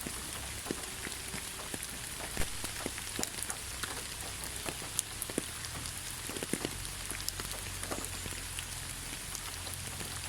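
Rain falling steadily on leaves: a constant hiss with many separate drops ticking at irregular moments.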